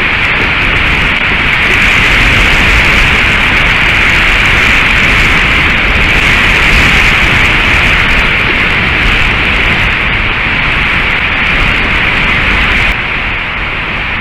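Strong wind rushing over the nest camera's microphone as a steady, loud hiss, easing a little near the end.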